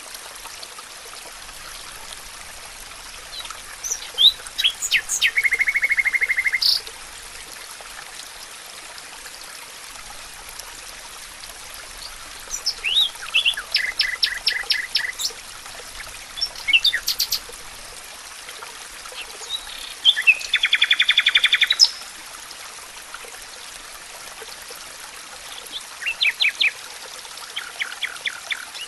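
A songbird singing in a forest, about five short phrases, each a few quick high notes running into a fast trill, over a steady background hiss.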